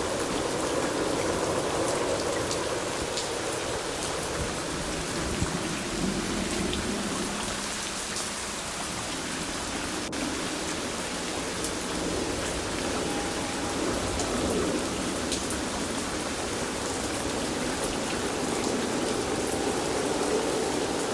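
Steady rain falling and pattering on a surface, with scattered individual drops ticking through the even hiss.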